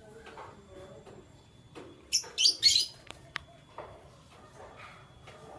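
Canary chirping: a quick run of three short, high chirps a little past two seconds in, with a single sharp click a second later and faint bird sounds otherwise.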